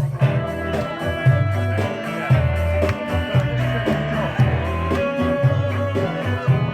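Rock band music with no singing: guitar over a moving bass line and drums.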